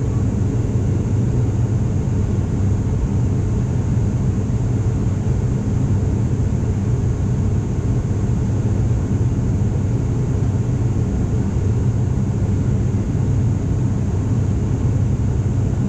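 Steady drone of an ATR 42-500's two turboprop engines and propellers, heard inside the passenger cabin in the climb, with a deep even hum.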